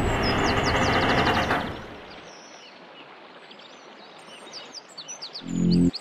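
Birds chirping in quick repeated notes over a quiet outdoor background, after a loud, noisy wash fades out about two seconds in. Near the end, loud low pulsing tones come in.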